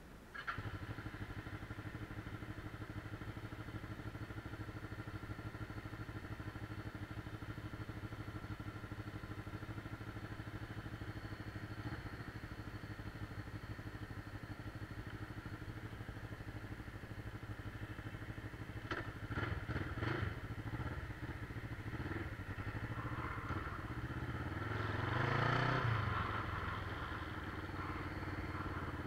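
Motorcycle engine running steadily at idle, cutting in suddenly at the start. A few sharp clicks come about two-thirds of the way through, then the engine revs up briefly and settles back.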